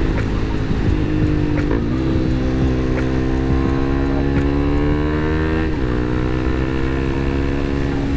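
Motorcycle engine under way. It shifts up about two seconds in, climbs steadily in pitch as it accelerates through the gear, shifts up again about two-thirds of the way through, then holds a steady pitch.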